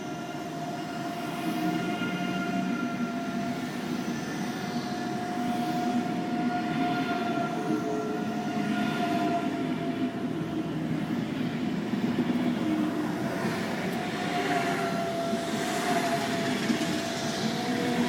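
ICE 3 high-speed electric train pulling away from the station. A steady electric whine runs over the rumble of its wheels on the rails, growing gradually louder. Noisier passing rushes build up near the end.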